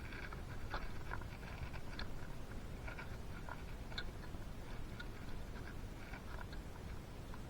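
Scattered small clicks and light scrapes at irregular intervals from hands handling two-stroke engine parts, over a low steady background hum.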